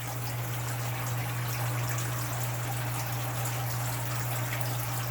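Submerged water pump humming steadily while water trickles and splashes through an RDWC hydroponic system. The flow is weak because the system is still low on water.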